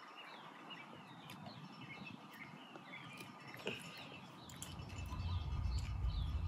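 Small birds chirping with many short, repeated calls that fall in pitch, against faint outdoor background noise. A low rumble builds up in the last two seconds.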